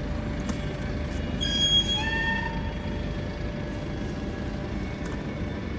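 Steady low vehicle rumble with a constant tone running through it, and a brief high-pitched squeal about a second and a half in that fades after a second.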